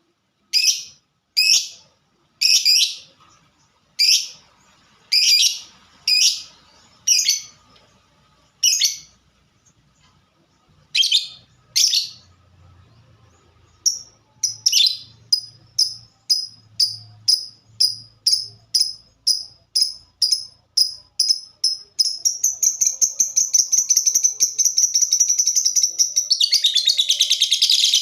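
Lovebird calling in sharp, high chirps, first spaced about one a second with short pauses, then quickening about halfway through into a rapid run, and near the end a fast, continuous chatter: the rapid 'ngetik' (typing) call.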